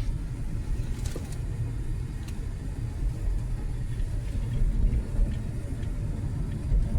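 Steady low rumble of a car, heard from inside the cabin, with a couple of faint clicks.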